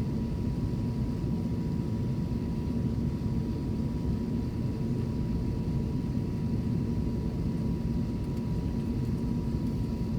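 Steady low rumble in the cabin of an Airbus A350-900 taxiing after landing, with a faint steady whine above it.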